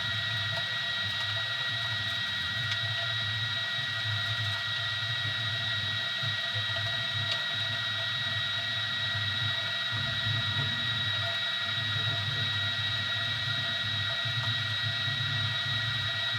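Easythreed X2 desktop 3D printer running a print: a steady high-pitched whine from the stepper motors over a low hum that rises and falls as the print head moves, dipping briefly about ten seconds in.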